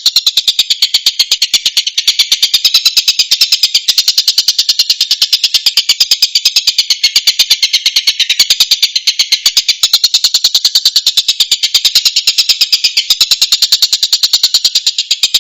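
Tengkek buto kingfisher calling: a loud, unbroken run of short, harsh, high notes repeated evenly, about seven a second.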